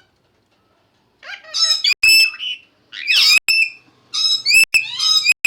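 Pet parrots squawking loudly in three harsh, high-pitched bouts, starting about a second in.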